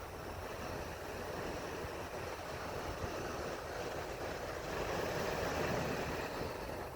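Steady rushing noise with no distinct tones, swelling a little about five seconds in.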